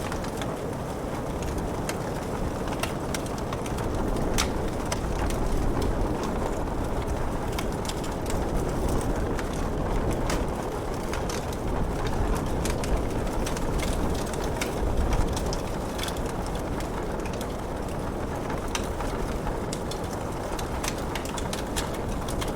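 Wood fire crackling, with scattered sharp pops, over a steady low rushing of rain.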